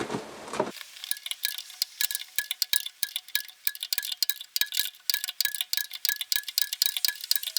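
A 3/4-inch-drive socket ratchet clicking fast and unevenly, several clicks a second with a light metallic ring, as a loosened track-roller bolt is backed out. The clicking starts under a second in.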